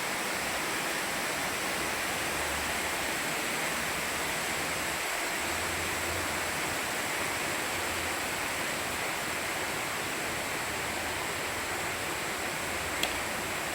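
Heavy downpour of large raindrops, a steady dense hiss of rain like a bucket being emptied. A single sharp tick near the end.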